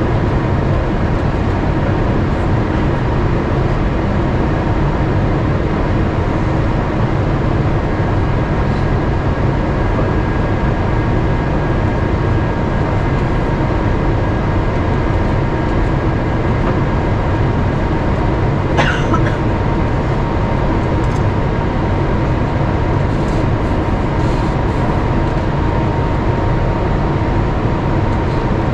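Steady cabin noise inside an Airbus A350-900 in flight: the low, even rumble of its Rolls-Royce Trent XWB engines and the airflow over the fuselage, with a faint steady hum. A brief high, falling sound cuts in once about two-thirds of the way through.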